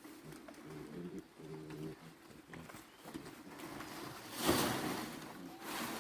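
A few short, low animal calls early on, then a loud rush of noise about four and a half seconds in.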